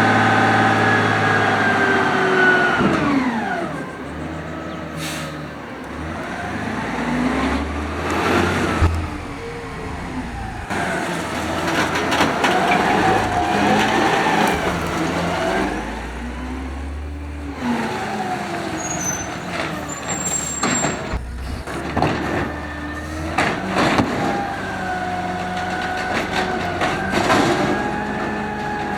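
Automated side-loader garbage truck at work: its engine revs up and down repeatedly as it drives the hydraulics, with sharp metallic bangs and clanks at intervals. The revs drop away about two seconds in, then climb and fall again several times.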